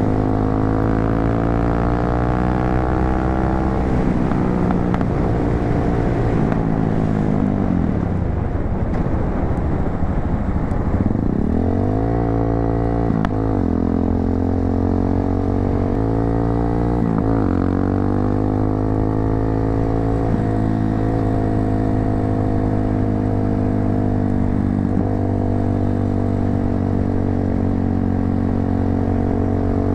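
250cc motorcycle with an aftermarket muffler running on the road. The engine note falls as the bike slows near the middle, then climbs again in steps with a few gear changes and settles to a steady cruise.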